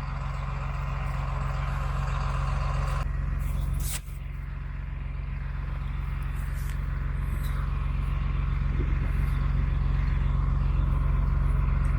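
Tractor engine running steadily under load, a continuous low drone, with a click and a brief drop about four seconds in.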